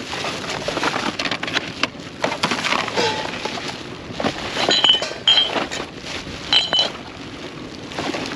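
Junk being rummaged through and shifted: a steady run of clinks, clanks and rattling debris, with brief high metallic squeaks about halfway through and again a little later.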